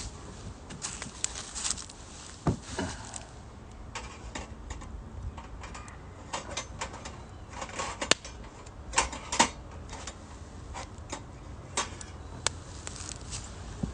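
Wood fire crackling in a mesh-bottomed fire stove, with irregular sharp snaps and pops, a few louder than the rest.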